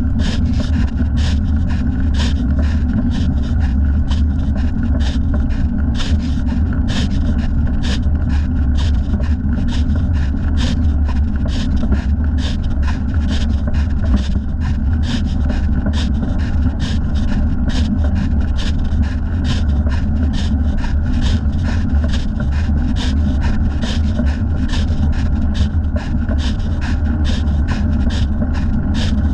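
Cycling heard from a thigh-mounted camera: a steady low rumble of wind and road noise, with a short rubbing scrape about twice a second as the leg moves with each pedal stroke.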